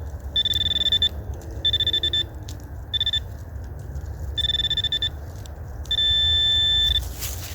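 Metal-detecting pinpointer probe sounding on a metal target: a steady high electronic tone that comes and goes in six irregular bursts as the probe is moved, the last the longest and loudest at about a second. A low rumble of handling runs underneath.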